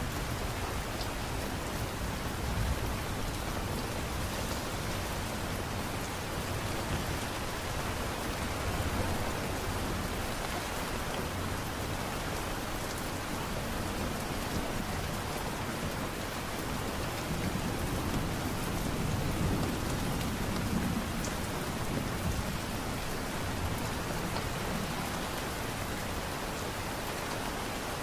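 Light rain falling steadily, an even hiss of drops, with a slight low swell about two-thirds of the way through.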